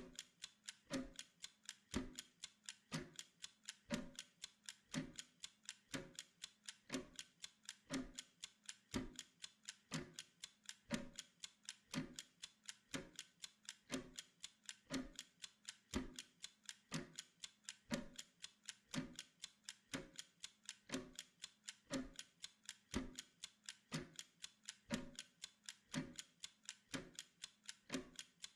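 Steady mechanical clock-style ticking, about four quick ticks a second with a louder, deeper tick once each second.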